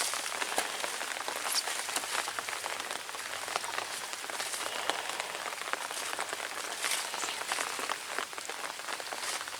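Steady rain pattering on an umbrella held overhead, a dense hiss of drops with many sharp individual drop ticks.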